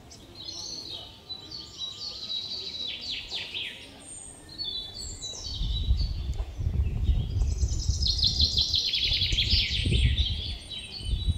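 Songbirds singing in trees, several rapid trilling phrases in a row. From about halfway in, a loud uneven low rumble lies under them.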